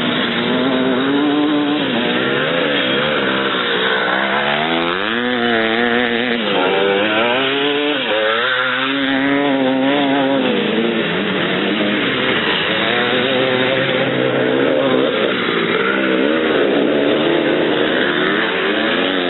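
Several vintage 500cc motocross bikes racing, their engines overlapping and revving up and down as the riders throttle through a set of turns, the pitch rising and falling every second or two.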